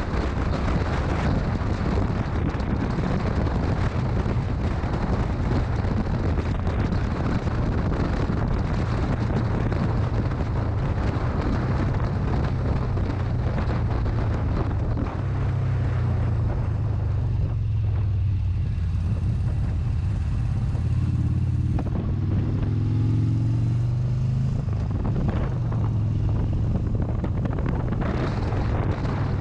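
Motorcycle engine running under heavy wind rush on the microphone while riding. The wind noise drops off about eighteen seconds in as the bike slows, then the engine note rises as it accelerates again, and the wind builds back up near the end.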